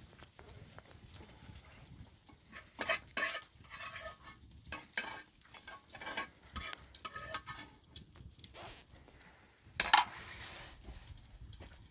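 A metal utensil stirring and scraping in a pan or dish, with irregular scrapes and clinks. One sharp, loud clank rings out about ten seconds in.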